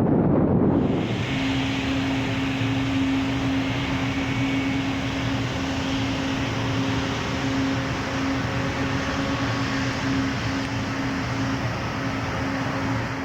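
Boeing 787-8 jet airliner on its landing approach: its engines give a steady rushing whine with a constant low hum. The sound changes about a second in, where the previous clip cuts away.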